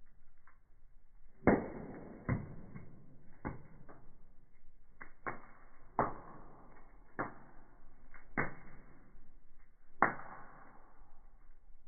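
Wood fire burning in a fireplace, crackling with sharp, irregular pops; the loudest pops come about a second and a half in and near the end.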